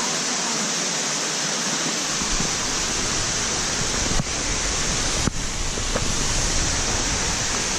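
Steady rushing of a waterfall, an even hiss of falling water. A low rumble joins about two seconds in, and there are two brief clicks about four and five seconds in.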